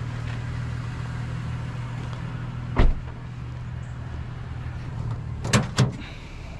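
A vehicle engine idling with a steady low hum. A single heavy thump comes about three seconds in, and two sharp knocks near the end.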